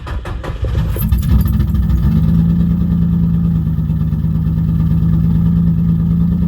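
Turbocharged Infiniti G35's 3.5-litre V6 cranking on the starter, catching about a second in and then running steadily with a loud, even low hum. It is the first start after the car has sat a long time with the engine dry of oil.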